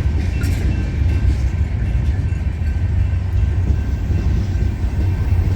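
Freight train cars rolling past close by, a steady loud low rumble of wheels on rail.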